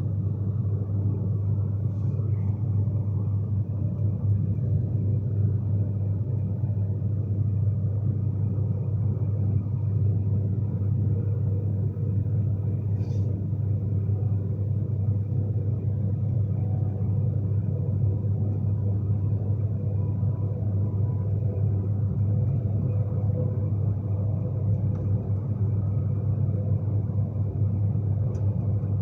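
Steady low rumble inside a moving Class 390 Pendolino electric train, with a faint steady hum above it and an occasional faint tick.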